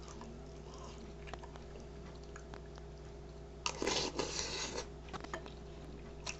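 Crunchy cereal being chewed close to the microphone, with a burst of crunching a little past halfway that lasts about a second, over a low steady hum.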